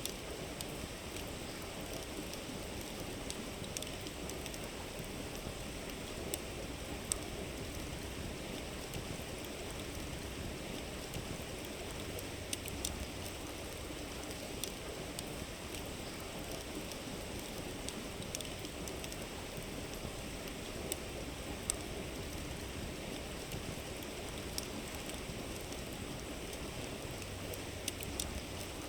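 A river flowing steadily, with a wood campfire crackling close by: sharp pops at irregular intervals, every second or two, over the water's even rush.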